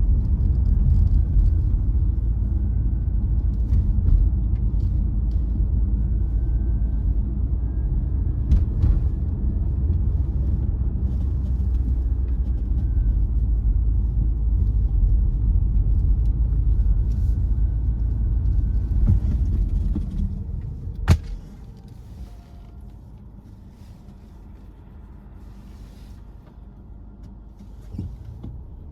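Car driving, a steady low rumble of tyres and engine on the road. About two-thirds of the way through, the rumble drops off sharply and stays low, with a single sharp click shortly after. It starts to rise again near the end.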